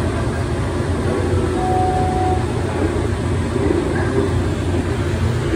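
Airport people-mover train (the Plane Train) running: a steady low rumble.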